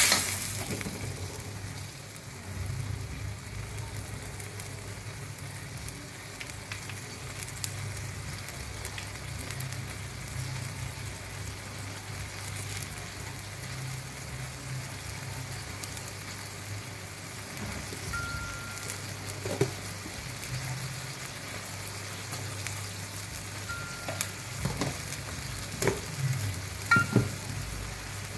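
Sauce sizzling and simmering steadily in a stainless steel wok, over a low steady hum, with a few light clicks in the last several seconds.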